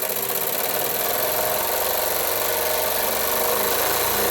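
Small toy live steam engine running fast and steadily, a rapid even chuffing of the piston with a constant hiss of steam; it is humming.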